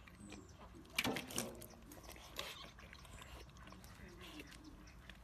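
Piglets grunting softly, with one louder short call about a second in and a few small clicks and snuffles after it.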